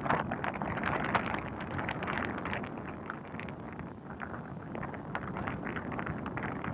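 Wind buffeting the microphone, a gusty rumbling rush with irregular crackles.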